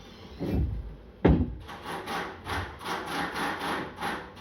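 A single sharp knock about a second in, then a steady back-and-forth scraping, about two and a half strokes a second, like a hand tool worked against a hard surface.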